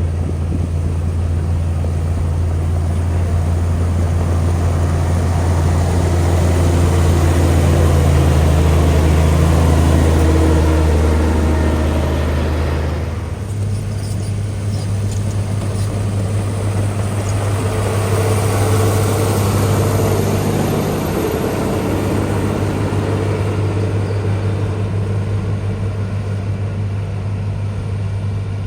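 Diesel engine of heavy earthmoving machinery running steadily under work, its low note stepping up slightly about halfway through.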